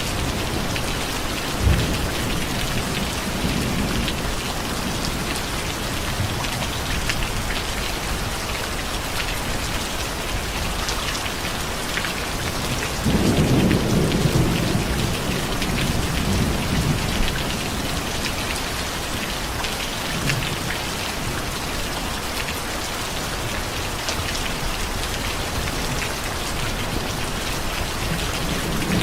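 Steady heavy rain falling with an even hiss, with rolls of thunder rumbling low, the loudest swelling up about halfway through. A single sharp knock sounds near the start.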